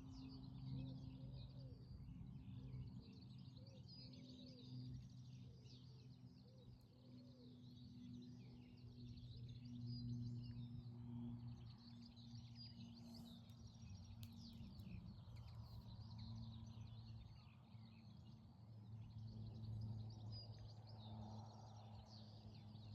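Birds chirping and singing over a steady low hum.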